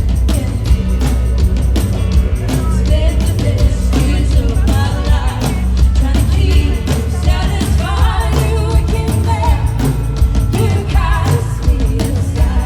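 Rock band playing with a singer over heavy bass and drums, the vocal line coming in about four seconds in.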